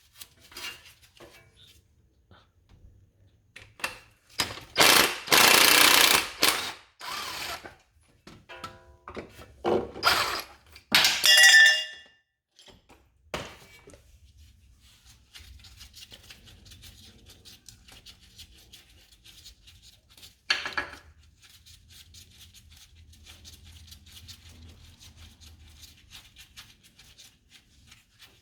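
Impact wrench bursts undoing engine mount bracket bolts: a long run about five seconds in, then shorter ones near ten and eleven seconds, with a ringing metal clink among them. Afterwards, faint rapid clicking.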